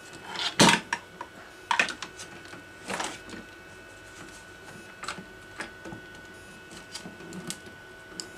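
Scattered sharp clicks and knocks. The loudest comes about half a second in, with others near two and three seconds in and fainter ones later, over a faint steady whine.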